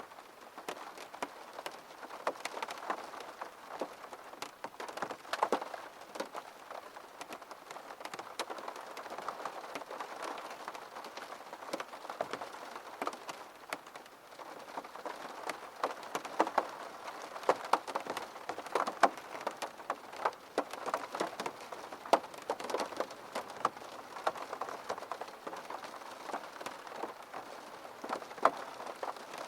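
Rain striking a window pane: a dense, irregular run of small drop taps over a steady wash, some taps louder than others.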